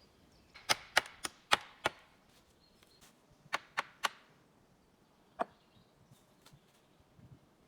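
Sharp blows of a tool striking wood: a quick run of five strikes, then three, then a single one, with pauses between.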